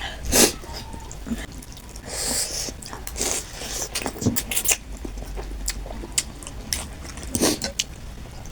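Close-up eating sounds from chicken thukpa noodle soup: chewing, with irregular wet mouth smacks and clicks.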